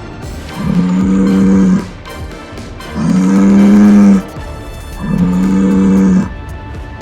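Bull mooing: three long moos of about a second each, steady in pitch and about a second apart.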